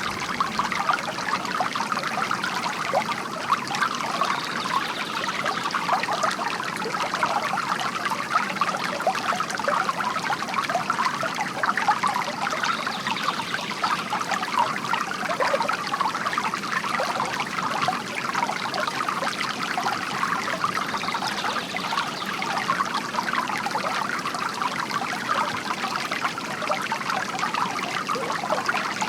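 Water from a bamboo garden fountain trickling steadily.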